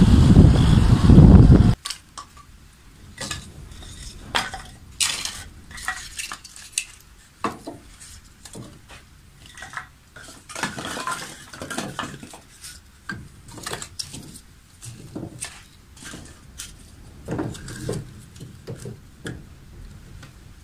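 A loud low rumble stops abruptly about two seconds in. After it come scattered clinks, knocks and clatters of dishes, pots and cutlery being handled.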